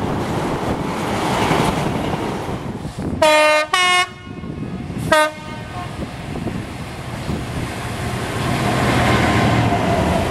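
Class 66 diesel locomotive passing with a steady rumble, sounding its horn in three short blasts about three seconds in, the first two back to back and the last briefer.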